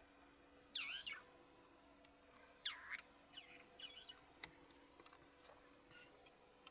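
Wild bird calling: two loud, harsh calls, about a second in and near three seconds, followed by several fainter, shorter calls.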